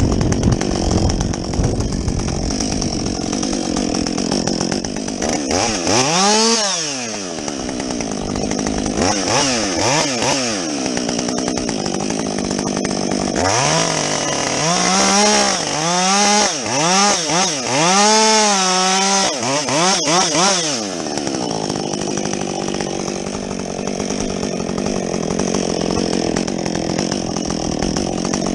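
Husqvarna 562XP two-stroke chainsaw with a modified muffler, running while bucking a felled tree. Its engine pitch rises and falls about six seconds in and again around ten seconds. It then revs up and back down in a quick string of five or six blips from about fourteen to twenty-one seconds, with steadier running before and after.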